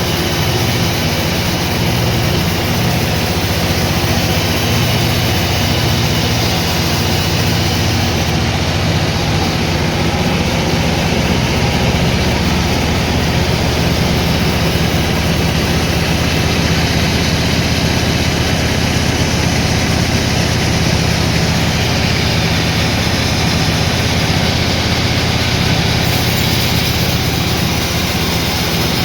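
Sawmill machinery running steadily: a low engine drone under a loud, even noise.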